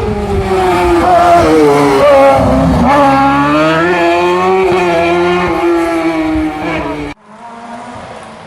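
Rally competition car's engine run hard at high revs, its pitch dipping briefly and climbing again as the throttle is worked. About seven seconds in it cuts off abruptly to a quieter, lower engine sound.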